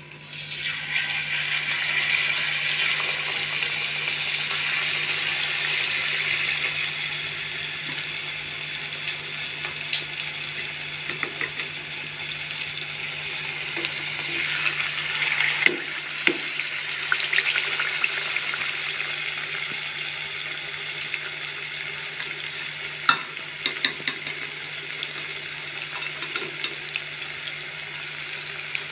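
Cabbage pakora batter frying in hot oil in a deep pot: a steady sizzle that starts suddenly as the first spoonful goes in and swells again about halfway as more batter is dropped in. A few sharp clicks sound over it.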